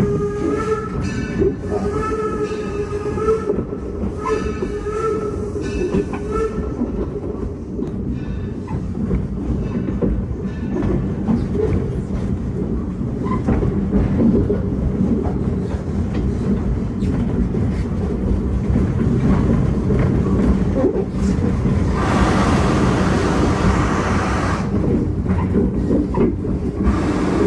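A train hauled by the 0-6-4T steam locomotive Torch Lake rolling along the track, with a steady rumble and wheel clatter. A wavering squeal sounds during the first six seconds, and a hiss lasts about three seconds near the end.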